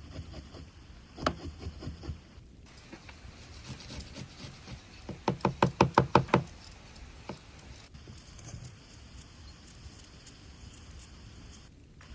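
Knocking on wood: a few scattered strikes early on, then a quick run of about ten loud strikes, roughly eight a second, lasting just over a second near the middle.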